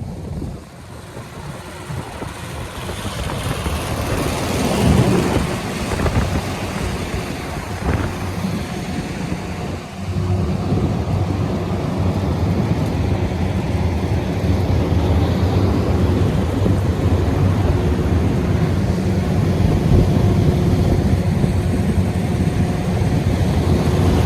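Carrier rooftop HVAC unit running: a loud machine hum that swells over the first few seconds, then settles after about ten seconds into a steady drone with a low hum at several fixed pitches.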